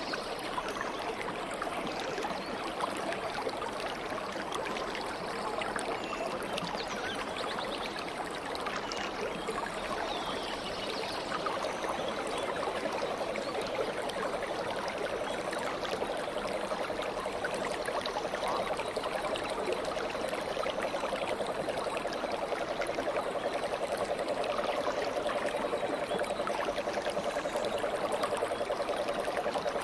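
Stream running steadily, water babbling and trickling over stones, with a gurgle that grows a little stronger about halfway through.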